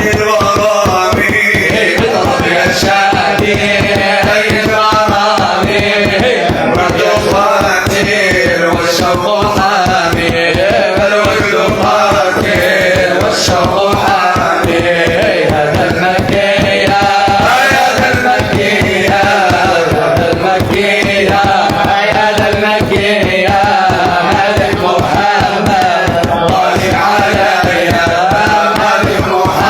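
Devotional Islamic song (madih) sung by voices in a chanting style over a fast, steady percussion beat.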